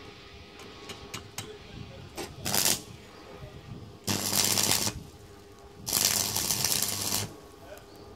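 Electric arc welding on a motorbike exhaust pipe: two crackling runs, the first about a second long and the second about a second and a half, each starting and stopping abruptly, with a low hum from the welder while the arc burns. A few light clicks and taps come before them.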